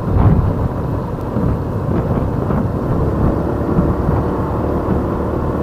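Wind buffeting the microphone of a motorbike moving at road speed: a steady, heavy low rumble, with the bike running underneath.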